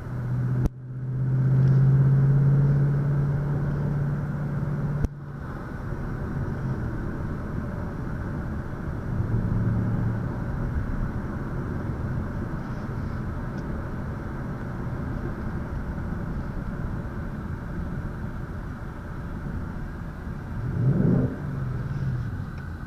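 2019 Ford Mustang GT's 5.0-litre Coyote V8 running on the road. About a second in it pulls hard with a loud, steady drone that cuts off abruptly around five seconds in. It then settles into steady cruising, with a short rising rev near the end.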